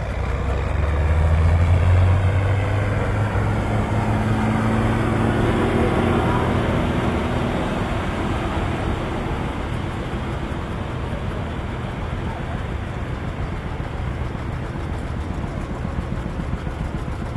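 Loud pulling-tractor engine running hard: its pitch climbs over the first several seconds, loudest about two seconds in, then a dense engine noise carries on and slowly fades.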